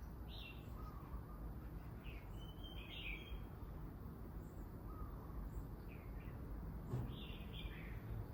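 Small songbirds giving short, scattered chirps over a steady low background rumble, with one brief sharp tap near the end.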